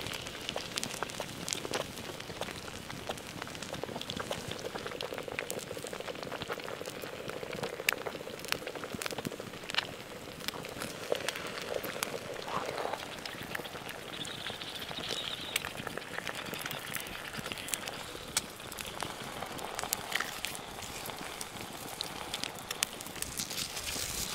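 Oil sizzling as an ostrich egg fries with bacon in a pan, a steady crackle of many small pops and spits.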